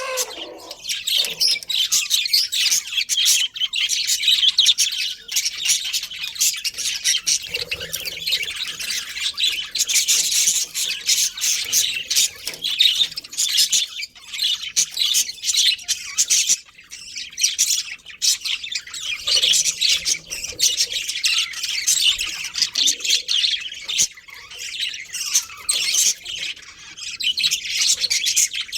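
Budgerigars chattering and chirping without pause, many short calls overlapping, with occasional squawks.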